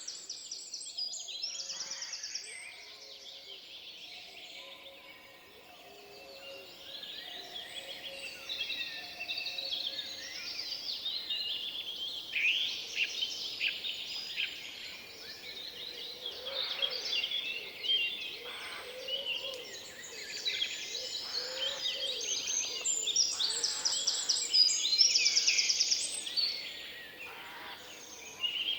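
Several songbirds singing at once in a forest, a dense chorus of trills, chirps and whistled phrases that grows fuller and louder in the second half.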